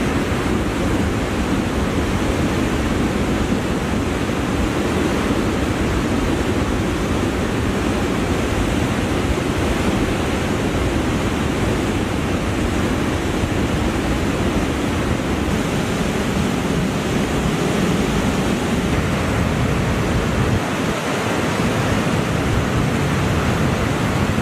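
A swollen mountain river in flood rushing steadily, a loud, unbroken roar of water that has risen high.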